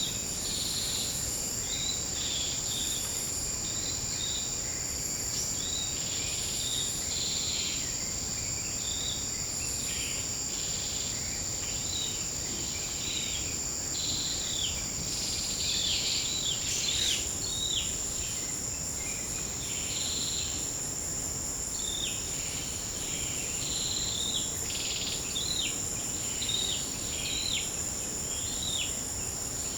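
Forest insect chorus: a steady high-pitched buzz with a pulsing, even higher trill repeating every second or two. Many short, quick chirps are layered over it, thicker in the second half.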